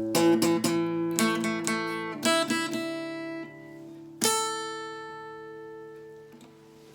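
Solo guitar playing the closing phrase of an enka melody: a run of plucked notes and strummed chords, then a final chord about four seconds in that rings out and slowly fades.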